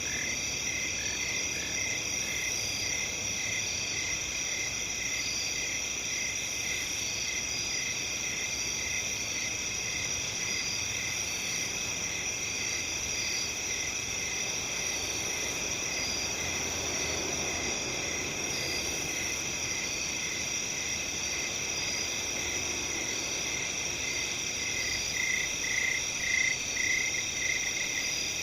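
Night chorus of crickets and other insects: steady high trilling, with regular short chirps that grow louder and faster near the end.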